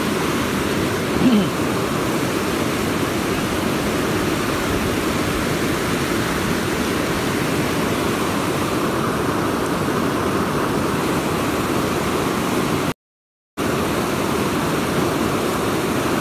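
Fast river current after heavy rain rushing steadily, an even wash of water noise. It cuts out completely for about half a second near the end.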